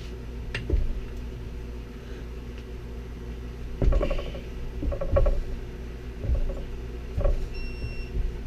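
Differential pinion nut being tightened with a hand wrench: a series of metal clicks and clunks at irregular intervals over a steady low hum, with a brief high beep near the end.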